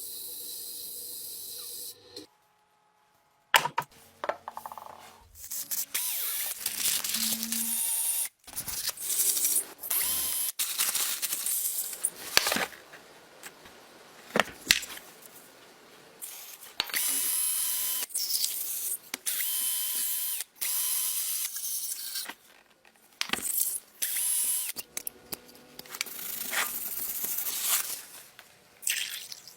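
Power tools, chiefly a drill, running in short spells with abrupt cuts between them, with a few ratchet-like clicks.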